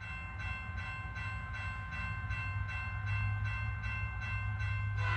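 Cable car gondola in motion, heard from inside the cabin: a steady low rumble with a high whine and an even ticking about two to three times a second.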